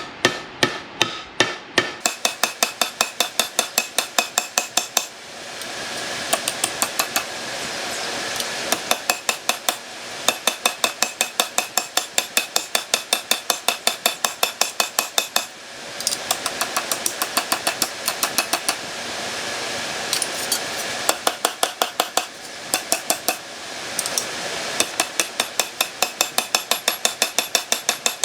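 A hammer striking sheet steel in long runs of quick metallic blows, about four a second, to bend a steel patch panel. Between the runs, a steady noise fills in for a few seconds at a time.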